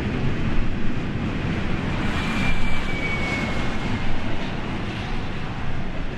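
BNSF double-stack freight train rolling past on the rails and moving away: a steady rumble of the cars, easing slightly toward the end. About two seconds in comes a brief thin squeal, falling slightly in pitch.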